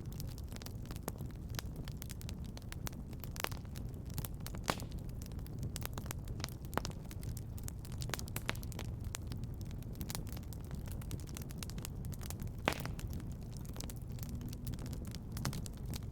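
Fireplace fire crackling, with irregular small pops over a steady low rumble; a few pops stand out louder, one about three and a half seconds in and another late on.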